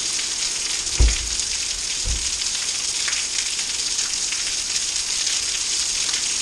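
Heavy rain falling in a steady hiss, with two low thumps about a second in and again a second later.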